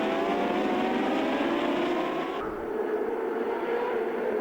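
Superbike racing engines running at high revs on track, the pitch climbing slowly as a bike accelerates. About two and a half seconds in, the sound changes abruptly to a steadier, duller engine note.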